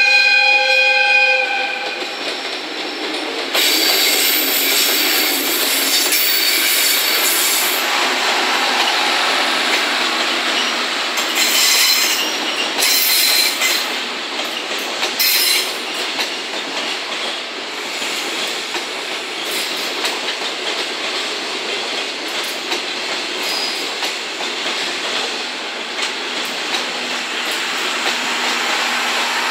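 An EF65 electric locomotive's air horn cuts off about a second in. Then 14-series passenger coaches roll past along the platform, their wheels clattering over the rails, with several stretches of high-pitched wheel squeal.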